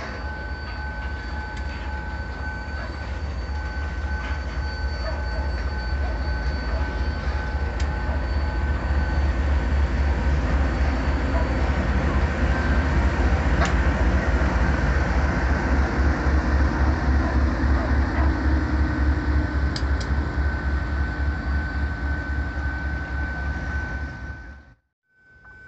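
Freight train passing close by: hopper wagons rolling over the rails with a heavy pulsing rumble. The rumble swells as a diesel locomotive goes by in the middle, with a steady high whine running through. It cuts off suddenly near the end.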